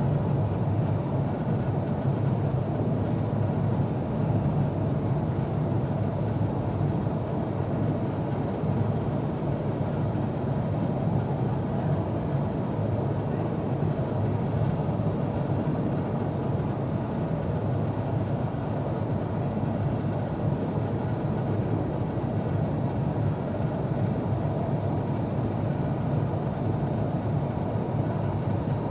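Steady low rush of cabin noise inside an Airbus A350-900 in flight: airflow over the fuselage and the hum of its Rolls-Royce Trent XWB engines, even and unchanging.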